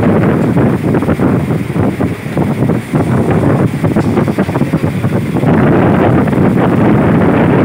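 Loud running noise of a moving train heard from on board, wheels on the rails with wind buffeting the microphone.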